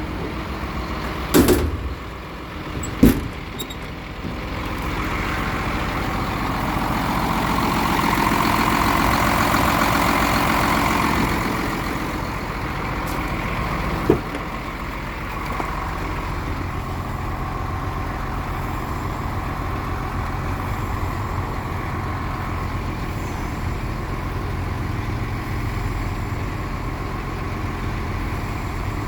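Two sharp knocks, like a drawer or door shutting, then a Hino truck's diesel engine running steadily, louder for several seconds in the middle before settling back to an idle, with one more knock partway through.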